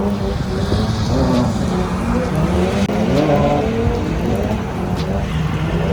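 Drift car engines revving hard, their pitch rising and falling again and again.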